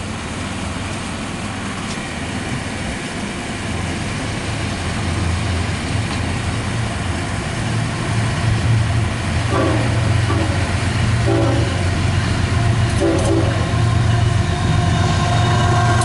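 CSX diesel locomotives leading an intermodal train approach, their low engine drone growing steadily louder. A few short tonal blips are heard in the second half.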